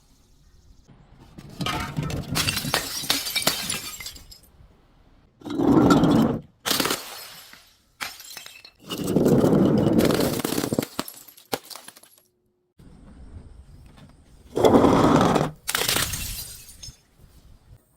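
Glass bottles breaking and being crushed: a series of separate crunching, shattering crashes, several in a row with short gaps between them.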